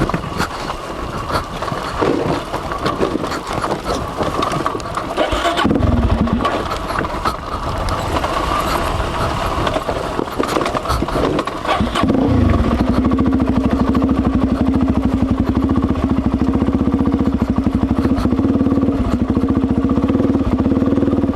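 Suzuki DR-Z400's single-cylinder four-stroke engine catching a little over halfway through and settling into a steady, evenly pulsing idle. Before that come irregular rustling and scraping noises, with a brief engine burst about six seconds in.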